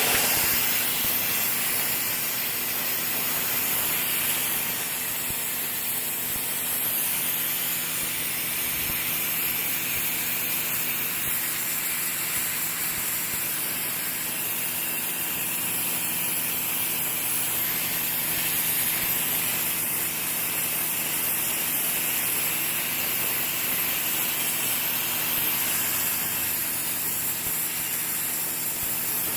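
Sun Joe SPX3000 electric pressure washer spraying steadily through its 15-degree nozzle, a continuous hiss of the high-pressure jet hitting a painted porch floor over the hum of its electric motor pump. The jet is lifting spilled paint.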